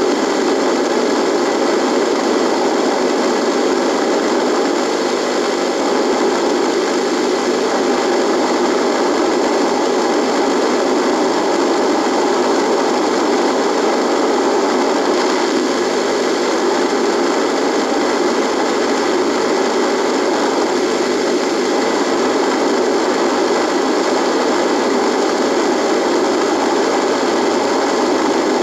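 Radio buzzing: a steady, unchanging static hiss with a faint hum of steady tones running through it.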